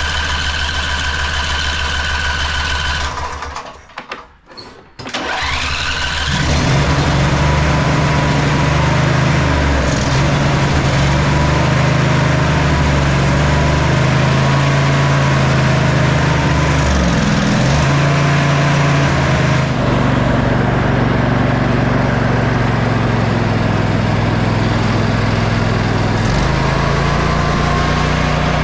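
Sabre by John Deere lawn tractor engine being cranked over by its electric starter with a high whine. After a short gap it catches about six seconds in and runs steadily, its speed shifting a couple of times later on. It starts and keeps running without flooding now that a new carburetor bowl gasket is fitted.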